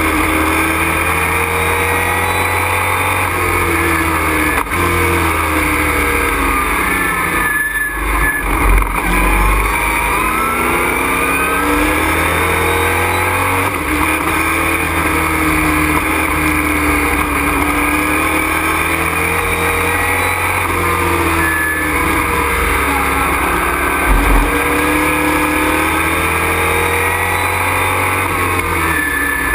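Race truck engine heard from inside the cockpit at racing speed. Its pitch climbs and drops again and again as it accelerates, shifts and slows for corners. There are deep thuds about eight and twenty-four seconds in.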